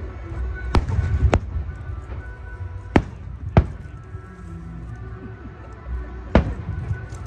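Fireworks shells bursting, five sharp bangs at uneven intervals, over steady background music.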